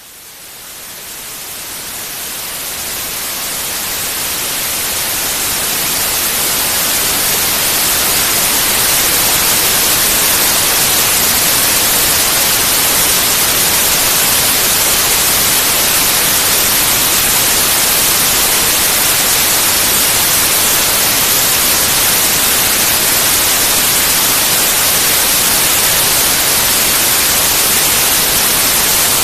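White noise: a steady, even hiss that fades in over the first several seconds and then holds level.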